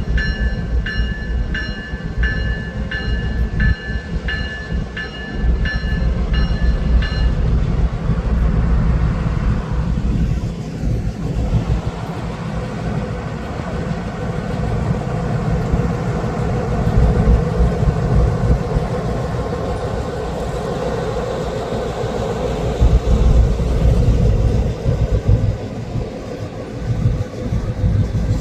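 Freight train on the move: low, steady rumble of a diesel locomotive and rolling cars. For the first seven seconds a bell rings about twice a second over it, then stops.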